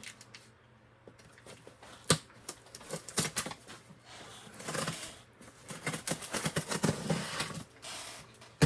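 Cardboard box being opened with a pocket knife's tape cutter: packing tape slit and cardboard flaps handled, a run of sharp clicks and knocks with scratchy rustling between them.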